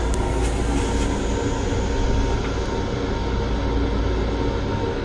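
Steady running rumble of a Long Island Rail Road M7 electric multiple-unit railcar in motion, heard from inside its small restroom. A short hiss comes in the first second.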